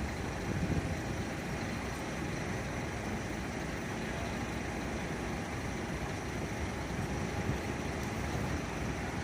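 A vehicle engine running steadily, a low, even noise with no distinct knocks or signals.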